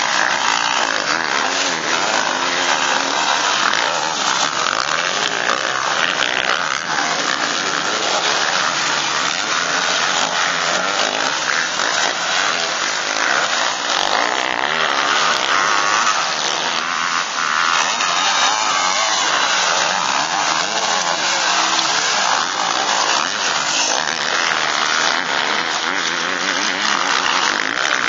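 Motocross bike engines revving hard during a race, buzzing continuously, the pitch rising and falling as the throttle opens and closes.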